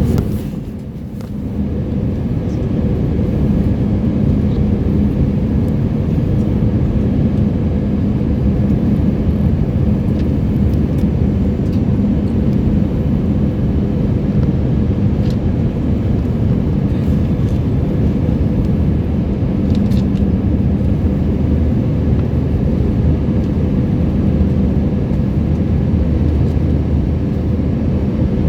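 Steady drone of an airliner in flight heard from inside the cabin: engine and airflow noise with a low hum, dipping briefly about a second in.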